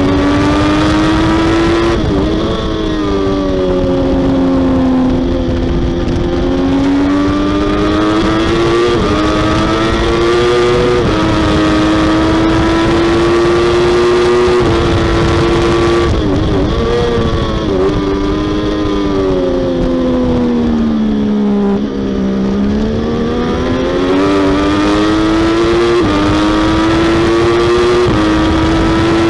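Triumph Daytona 675R's 675cc inline three-cylinder engine at racing revs, around 11,000 to 14,000 rpm, climbing in pitch with quick upshifts. About two-thirds of the way through, the note wavers through downshifts and falls as the bike brakes for a corner, then climbs again through the gears.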